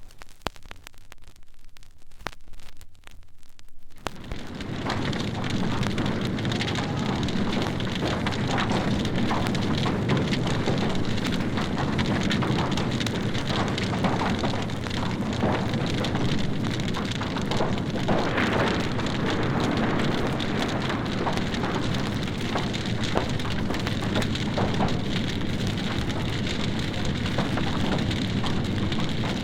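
Fire burning with water hoses playing on it: a steady rush of spraying water with dense, sharp crackling through it, starting about four seconds in after a short gap of faint clicks.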